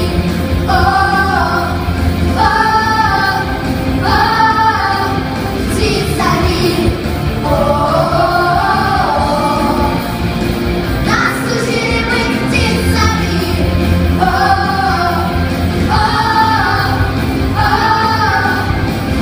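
A song sung by female voices over a pop backing track with a steady bass line. It comes in short repeated phrases with brief gaps, and a longer held phrase in the middle.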